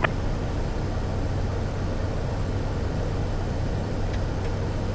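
Steady in-flight cabin drone of a Cessna Caravan's single turboprop engine, an even rushing noise over a constant low hum.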